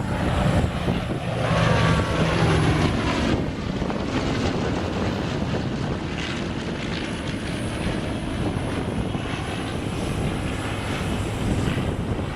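Propeller aircraft flying past with a loud engine drone. For the first three seconds a steady low engine hum sits under a pitch that slides as the aircraft pass, then it turns into a broad, steady rushing noise.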